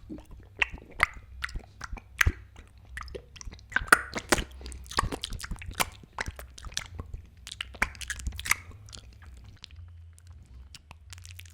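Chewing and crunching: an irregular run of sharp smacks and crunches over a low steady hum.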